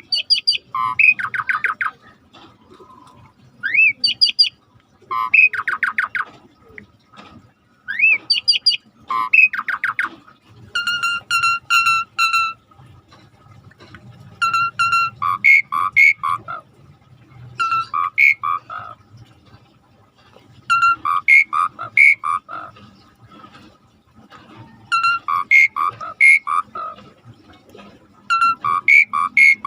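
Asian pied starling (jalak suren) singing loudly in repeated bouts about every second or two: rich whistled notes, rising slurs and fast rattling trills.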